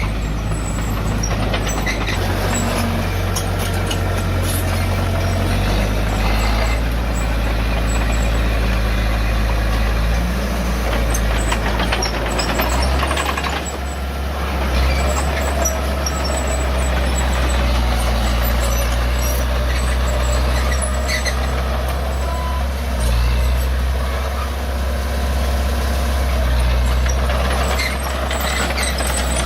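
Heavy diesel earthmoving machinery running and working, its engine note stepping up and down in pitch every few seconds as it is throttled under load.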